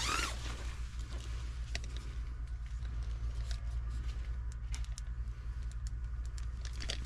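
A tent zip being pulled open, its rasp ending just after the start, followed by faint scattered taps and rustles over a steady low rumble.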